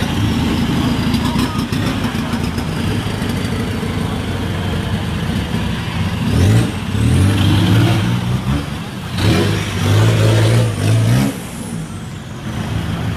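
Busy street traffic, vehicle engines running close by, with two loud passes about six and nine seconds in.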